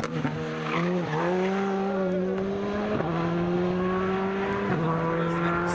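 Rally car engine under hard acceleration, its pitch climbing steadily and dropping abruptly at upshifts about three seconds in and again near five seconds.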